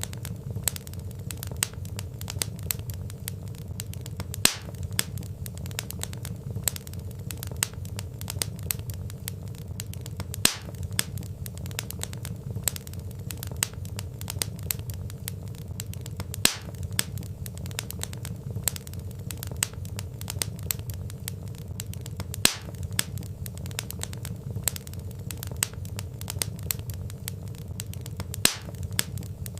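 Wood fire crackling in a fireplace: a steady low rumble of flames under a constant patter of small crackles, with a louder sharp pop from the logs about every six seconds.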